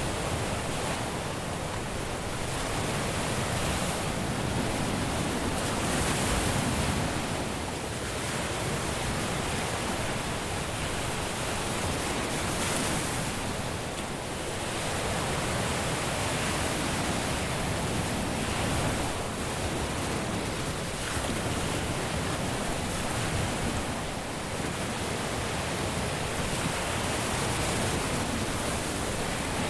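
Caribbean surf breaking and washing on a beach: a steady rush of waves that swells and eases every few seconds.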